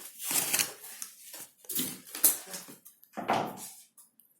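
Rustling and knocking of shower-set parts and packaging being handled, in a few short bursts with a sharp click about two seconds in.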